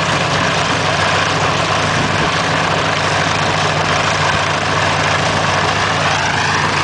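The BA Swallow's geared piston aero engine idling steadily on the ground after a hand-propped start, its propeller turning.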